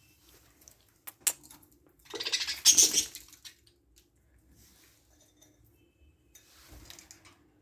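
Budgies moving about in their cage: a couple of sharp clicks, then a brief burst of rapid rustling about two seconds in, and a fainter rustle near the end.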